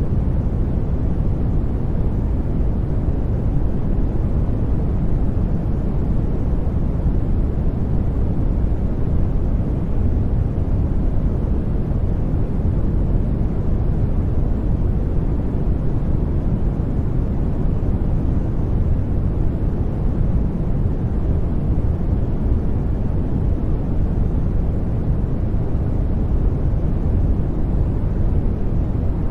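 Steady, unchanging low rumbling noise, weighted toward the low end like brown noise, with no breaks or events: a sleep noise track.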